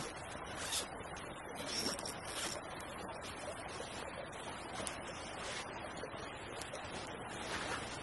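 Small creek flowing steadily, with a few short clicks over it.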